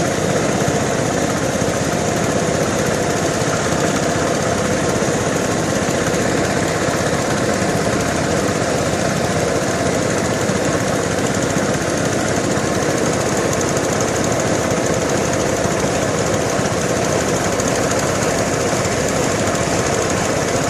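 An engine running steadily close by, loud and unchanging, with a rough, rapid rattle.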